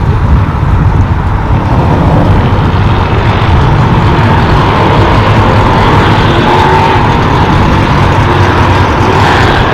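Cars driving out of a car-meet lot, their engines and exhausts making a loud, steady noise.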